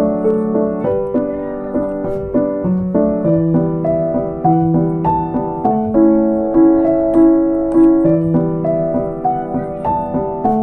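Soft background piano music: a gentle, slow melody with sustained notes.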